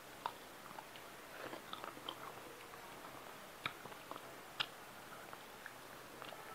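Close-miked chewing of a person eating hilsa fish head and rice with her fingers: soft wet chewing and small crackles, with a few sharp smacking clicks, one right at the start and two after the middle.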